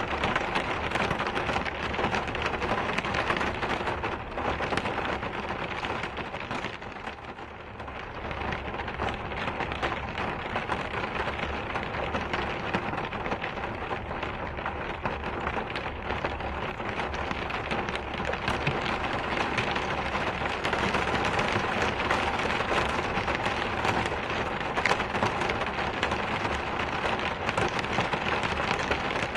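Steady rain falling, a dense even patter of drops. It eases briefly about seven seconds in and grows a little louder in the second half.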